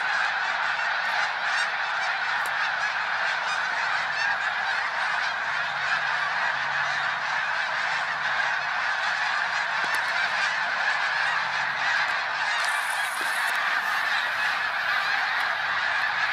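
A huge flock of birds, thousands strong, calling all together in a dense, unbroken clamour, having just been flushed from a farm field.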